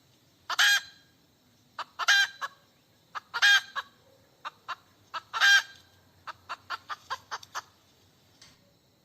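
Domestic hen cackling: four long loud squawks spaced about one to two seconds apart, with short clucks between them, then a quick run of about eight short clucks.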